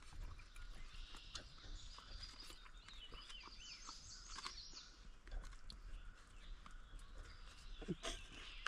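Faint birds singing and chirping, with a burst of quick falling notes about three to four and a half seconds in. Scattered light clicks are heard throughout.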